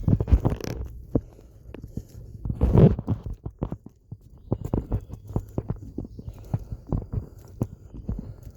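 Footsteps of someone walking a woodland trail, a steady run of soft thuds about two or three a second, with two louder rustles near the start and about three seconds in.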